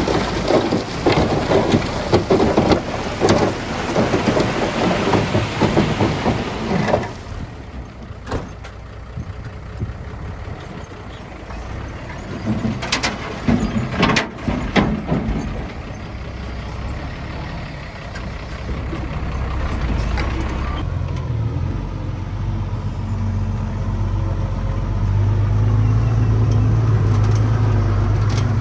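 Diesel earthmoving machinery working rock and soil: about seven seconds of heavy, dense machine and material noise, then quieter running with a few sharp knocks, and a low engine note that grows louder near the end.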